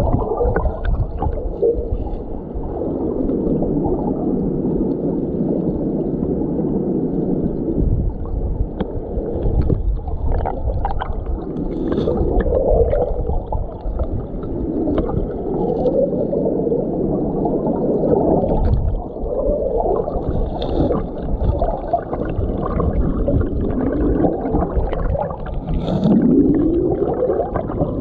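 Mountain stream water heard through a submerged camera: a muffled, low rushing and gurgling, with pitch glides that rise and fall and small ticks from bubbles and stones.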